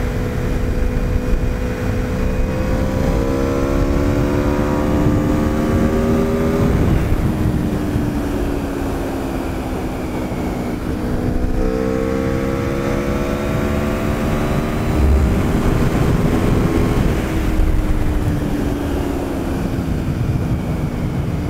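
Aprilia RSV4 RR's V4 engine running on the move as the bike accelerates: its note climbs steadily, drops back about seven seconds in, then climbs again from about twelve seconds before dropping back once more near eighteen seconds.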